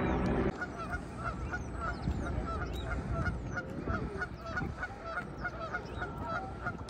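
Canada geese honking over and over, about three short calls a second, with small birds chirping faintly. A steady droning hum, loud at first, cuts off suddenly about half a second in.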